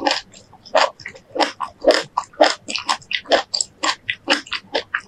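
Close-miked chewing of a bite of fresh fruit, a steady rhythm of about two chews a second.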